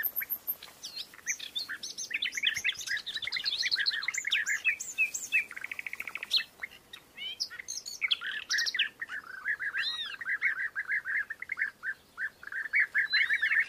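Birds chirping in quick, dense runs of short calls, with higher notes over them, a brief fast trill about halfway through and a short lull just after.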